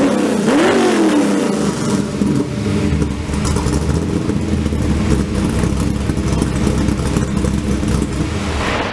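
L98 V8 in a Mazda RX-7, blipped once about half a second in and falling back to a steady idle.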